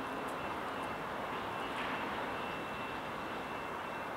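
Freight train rolling away on the rails: a steady noise of wheels on track, with a faint high steady tone over it.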